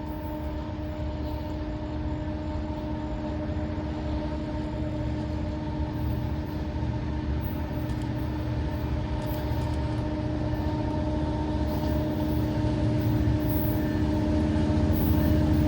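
Diesel locomotive of an approaching freight train, its engine rumble and a steady hum growing gradually louder.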